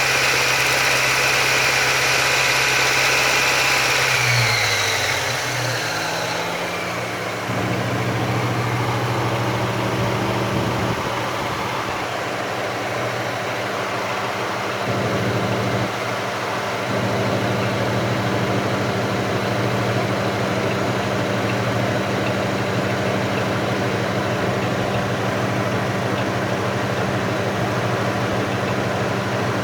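Car engine idling; its speed falls about five seconds in and then settles into a steady idle.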